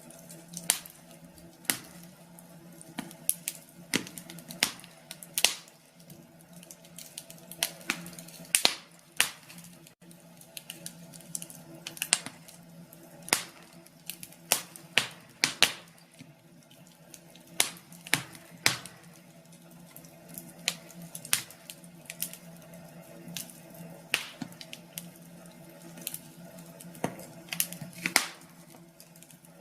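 Wood fire crackling: irregular sharp pops and snaps, sometimes several in quick succession, over a faint steady hum.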